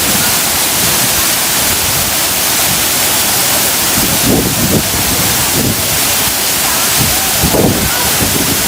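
Waterfall pouring, a loud steady rush of falling water, with brief voices about halfway through and near the end.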